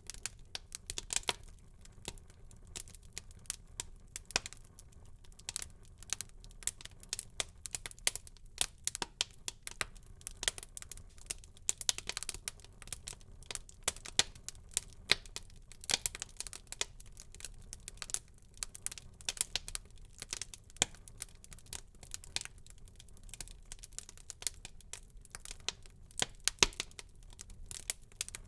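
Wood fire burning in a fireplace, crackling with many irregular sharp pops and snaps over a faint low hiss.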